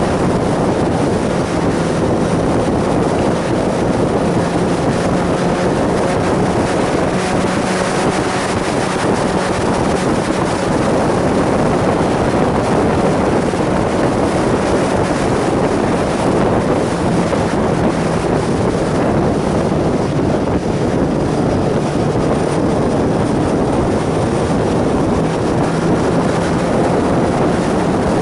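Sport motorcycle riding at steady speed: the engine holds an even note under heavy wind rush on the microphone.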